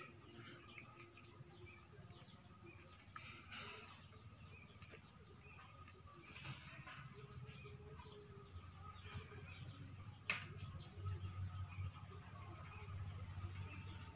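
Faint bird chirping in the background, short high chirps scattered throughout, with a single sharp click about ten seconds in.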